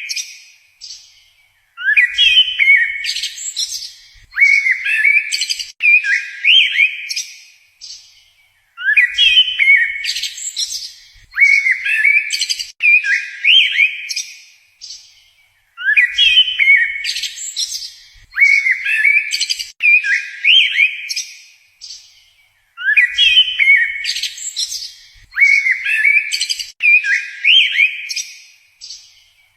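A songbird singing short phrases of quick sliding whistled notes, repeated in groups of three or four with short pauses between the groups.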